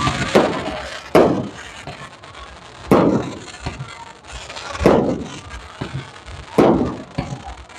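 Aerial fireworks bursting: about five sharp bangs spaced a second or two apart, each with a trailing rumble as it fades.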